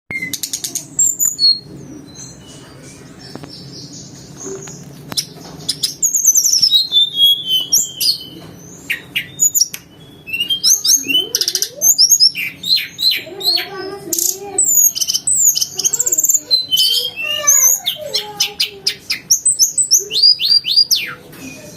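Tledekan gunung songbird singing a rapid, varied song of high whistles, falling slurred notes and fast chirp series, mixed with canary-like phrases. The song is quieter for a few seconds about two seconds in, then comes back loud and dense.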